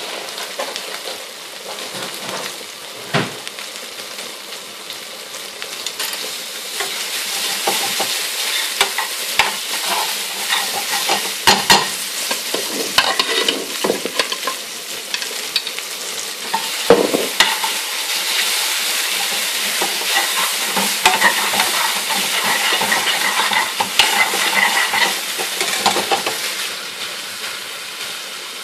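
Curry sauce with mushrooms, peppers and peas sizzling in an aluminium pan over a gas flame, growing louder after about six seconds, while a metal spoon stirs and scrapes through it with occasional sharp knocks against the pan.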